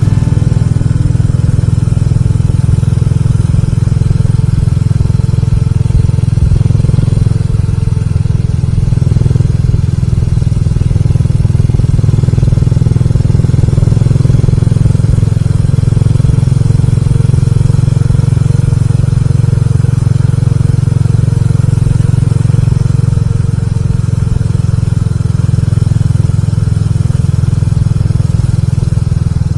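Motorcycle running steadily while being ridden, heard as a loud, constant low rumble of engine and wind noise at the onboard microphone.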